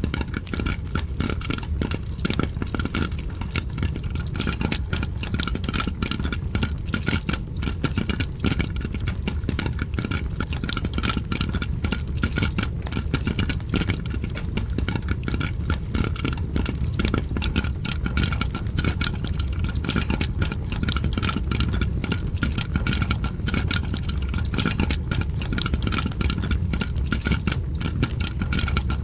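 Popcorn popping mixed with fireplace crackling: a dense, continuous run of pops and crackles over a steady low rumble.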